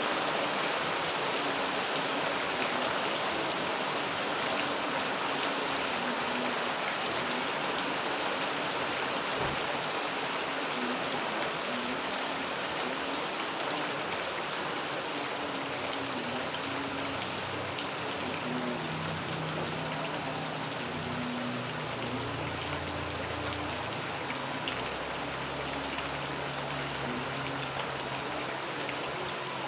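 Steady rain falling, an even dense hiss of drops. A faint low hum joins about two-thirds of the way in.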